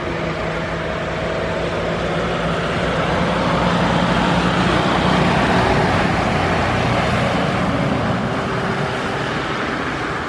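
Boeing 787 Dreamliner jet engines at takeoff power, a loud steady roar that swells to its peak about halfway through and then eases off as the aircraft goes past.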